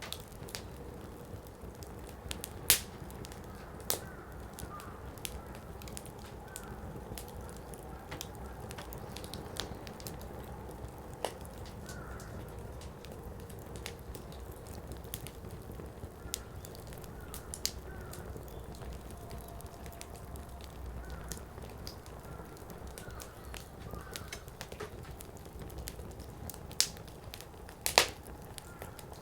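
Firewood burning in a Coleman Fire Disc: a steady low rush of flame with frequent small crackles and a few sharp, loud pops as the wood splits, the loudest near the end.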